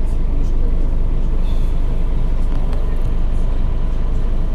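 Scania OmniCity city bus heard from inside: its diesel engine runs with a steady low rumble and drone, with a few faint clicks and rattles.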